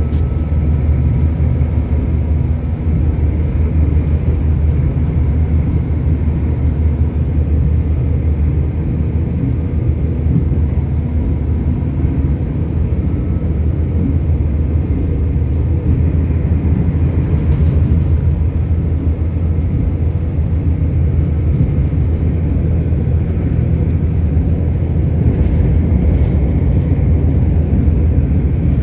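Train running: a steady low rumble, with a few faint ticks in the second half.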